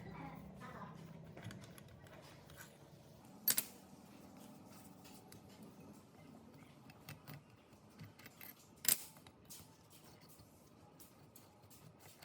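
Sharp clicks and light taps of hand work on small metal parts, the two loudest about three and a half and nine seconds in, over a faint low hum.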